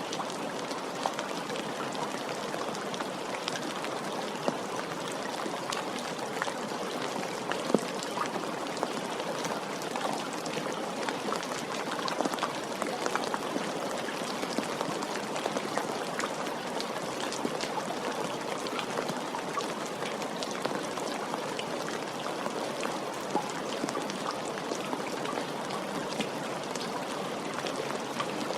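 Steady rain falling, with many small drops ticking and now and then a louder drip.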